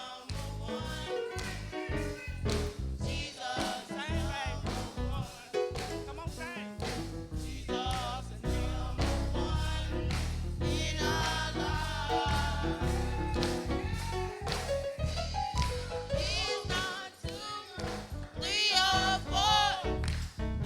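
Live gospel song: a band with drums and bass, with voices singing over it.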